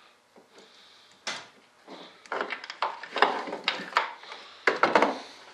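Hands handling servo extension leads and small plastic connectors: a run of clicks, taps and rustling that grows busier after about two seconds, with a few sharp clicks near the end.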